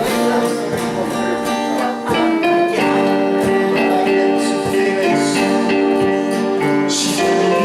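Live band playing an instrumental passage, with electric or acoustic guitars strumming chords over held notes.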